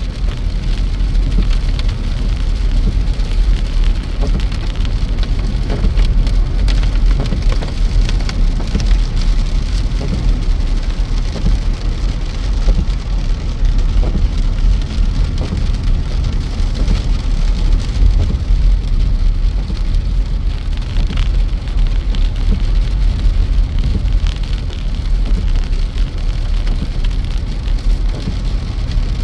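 Steady rushing noise of water with many fine ticks and a strong deep rumble underneath.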